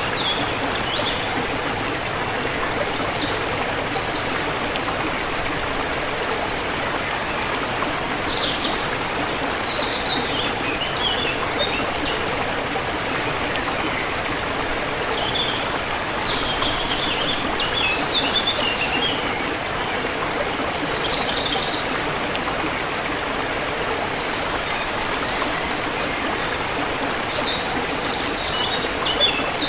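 River water running steadily over rocks, with small birds chirping in short bursts several times above it.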